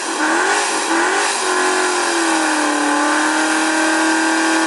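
Car engine revved hard and held at a high, steady note; the pitch wavers over the first second and a half, then settles.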